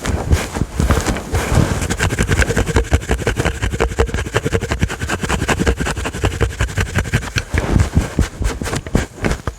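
Fingers scratching fast and hard on a fluffy microphone windscreen: a dense, continuous run of scratchy strokes with a deep rumble from the microphone.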